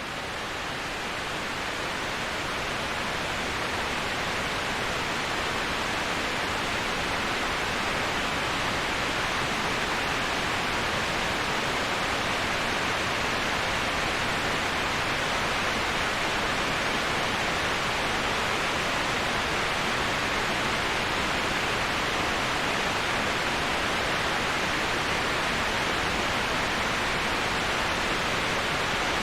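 Steady, even rushing of waterfall white noise, swelling up from silence at the start and then holding constant, brightest in the upper middle of the range with no separate splashes or other events.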